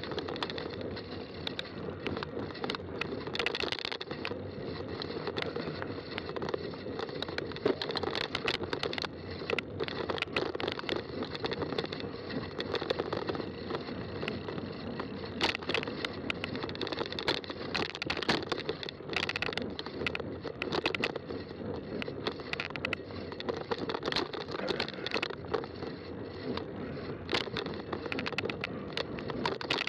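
Fat-tire bike riding over a trail: continuous rolling noise with frequent clicks and rattles from the bike.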